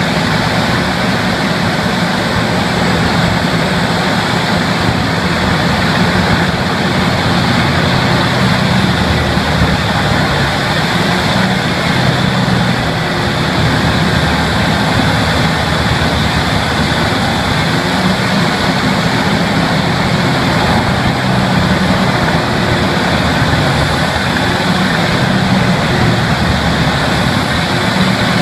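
A heavy engine-driven machine running steadily, with a dense, even mechanical noise and a low engine drone.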